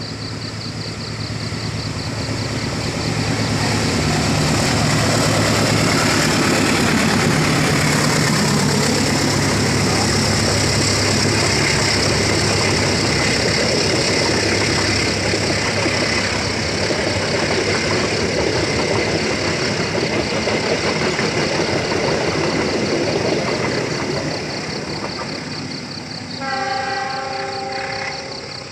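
A train passing close by, a dense rumble and rattle of wheels and engine that swells over a few seconds, runs loud for about twenty seconds, then eases off. Near the end a horn sounds briefly, a steady chord of several tones lasting about a second and a half.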